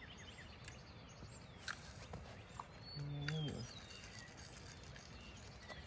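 Faint songbird chirps over a steady low background hiss, with a single sharp click about two seconds in and a brief low voice sound from a man a little past halfway.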